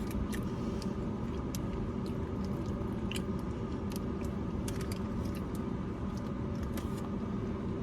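A person chewing a mouthful of carne asada burrito, with scattered small wet mouth clicks, over a steady low hum from the car.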